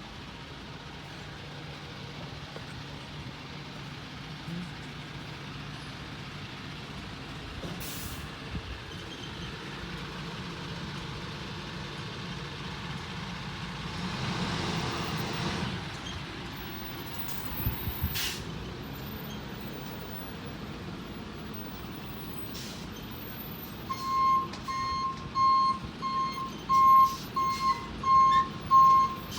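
Garbage truck engine running, with a broad swell of noise about halfway through and a few short, sharp hisses. Near the end the truck's reversing alarm starts beeping, about two beeps a second.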